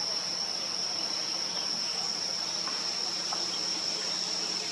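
Insect, likely a cricket, trilling in one steady high-pitched drone that never breaks.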